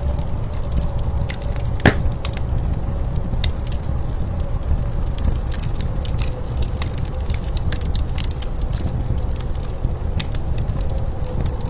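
Wood fire crackling with scattered pops, and one sharp snap about two seconds in, over a low steady rumble of blizzard wind with a faint steady whistle.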